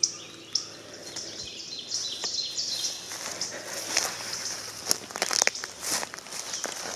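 Small songbirds chirping repeatedly in woodland, with scattered crackling footsteps through forest-floor litter.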